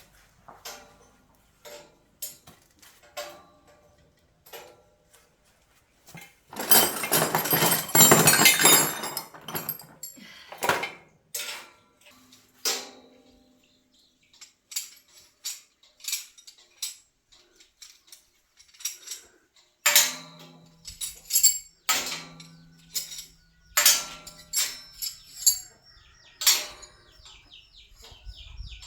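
Metal pieces clinking and knocking while steel shelf parts are handled. There is a loud, dense clatter of about three seconds after a few seconds, then scattered knocks.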